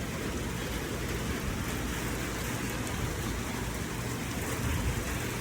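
Steady rush of rain on a car, heard from inside the cabin, with a low rumble underneath.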